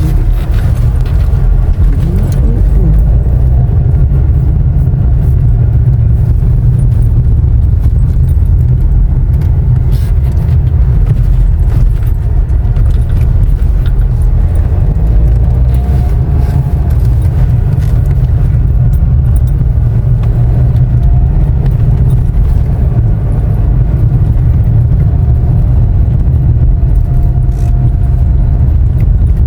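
A car driving along a road, heard from inside: a steady low rumble of engine and road noise.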